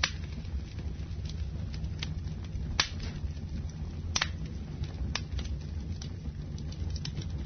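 Wood fire burning in a fireplace: a steady low rumble of the flames with scattered sharp crackles and pops, the loudest at the start and about three and four seconds in.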